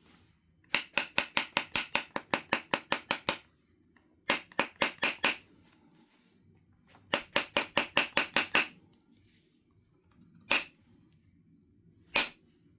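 Knife River flint biface being worked with a knapping tool: three runs of quick, light clicking strokes at about six a second, then two single sharp clicks near the end.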